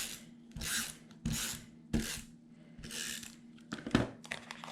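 Paper and craft supplies being handled on a tabletop: about five short rasping rubbing strokes in a row, then a few light sharp clicks near the end.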